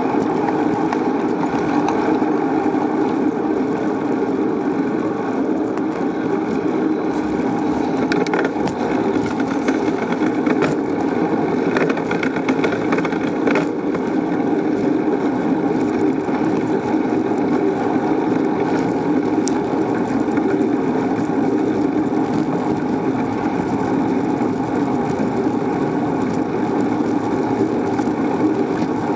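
Steady drone of riding noise picked up by a camera on a moving bicycle, unbroken throughout, with a few faint ticks in the middle.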